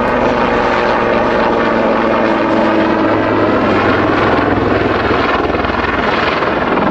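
Westland Lynx helicopter in flight during a display, its rotors and turbine engines making a loud, steady sound with a few steady tones that shift slightly in pitch.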